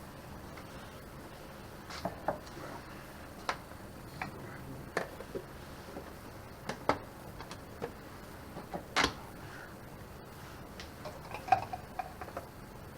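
Scattered light clicks, clinks and knocks of small containers and tools being picked up and set down, about a dozen over the stretch, with the loudest near the end.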